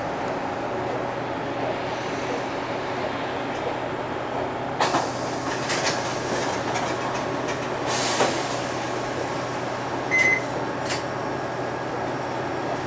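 Cabin running noise of a Nissan Diesel (UD) Space Runner RA city bus under way: a steady diesel engine hum and road noise. A few sharp knocks or rattles come about five, six, eight and eleven seconds in, and a short high beep about ten seconds in.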